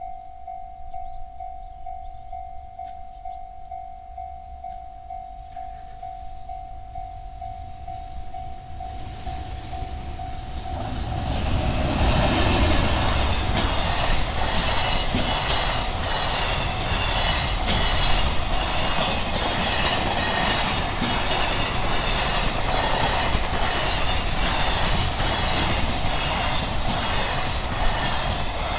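A level-crossing warning bell rings steadily. About ten seconds in, an EH500 electric locomotive arrives with its container freight train, and the wheels clatter rhythmically over the rail joints as the wagons roll past.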